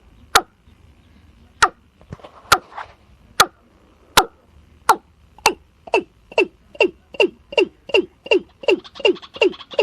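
Watercock calling: a series of short notes, each dropping in pitch. They come about one a second at first, then from about halfway speed up into an even run of about two and a half notes a second.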